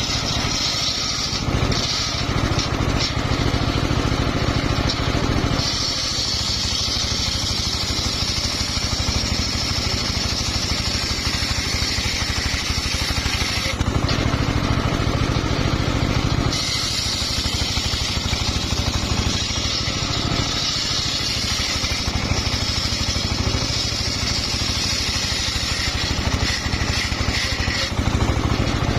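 Engine-driven home-built circular sawmill running steadily, its blade ripping through a hard, old mahogany log in long cuts that add a high hissing whine. There is a short break in the cutting about 14 seconds in, while the engine keeps running.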